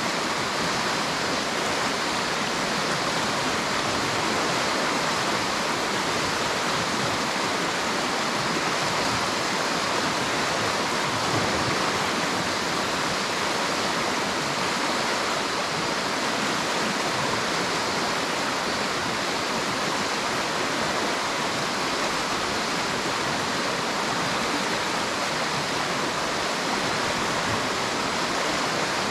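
River water rushing and splashing over rocks, a steady, even rush of flowing water.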